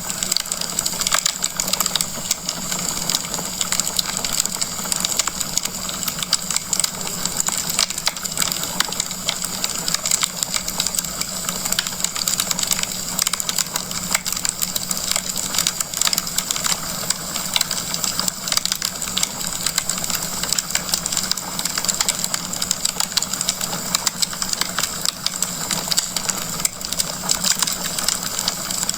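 Wood fire crackling steadily in a fireplace, a dense run of small pops and snaps over a soft hiss.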